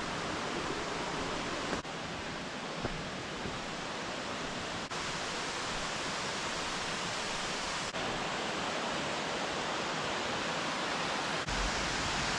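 Waterfall rushing: a steady full roar of falling water, broken by brief dropouts every few seconds, with a low rumble coming in near the end.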